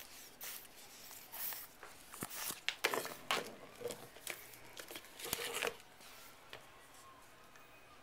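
Irregular rustling and scuffling, crinkly scrapes and soft knocks, busiest from about a second and a half to six seconds in, then fading to quiet room noise.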